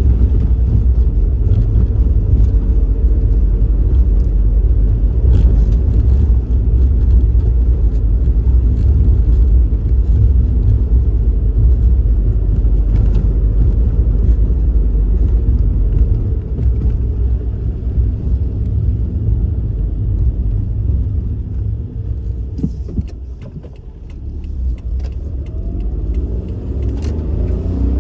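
Suzuki Kei Works kei car driving: a steady low rumble of engine and road noise with scattered light rattles. The sound eases off a little after twenty seconds, then the engine tone climbs as the car accelerates near the end.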